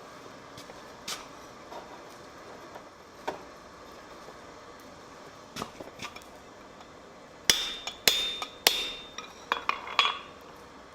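Hand hammer striking metal on an anvil: light scattered taps, then near the end a quick run of about seven hard blows, several of them leaving a short metallic ring.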